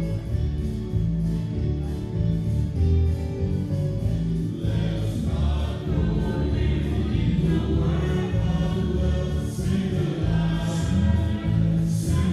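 Gospel music with a choir singing over bass-heavy accompaniment; the voices come in fuller about four and a half seconds in.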